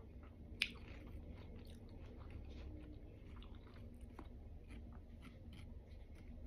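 Faint, wet chewing of watermelon close to the microphone, with many small clicks and one sharp click about half a second in.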